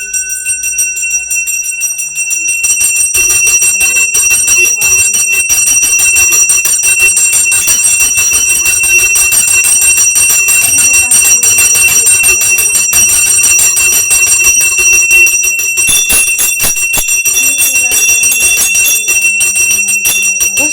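Hindu puja bells rung rapidly and without pause, a dense metallic jangle with several ringing tones held over the strikes, starting about two and a half seconds in after a quieter lead-in.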